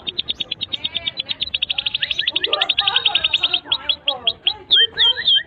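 Domestic canary singing: a fast, high trill of about ten notes a second that near the end changes to slower, downward-swooping notes, about three a second.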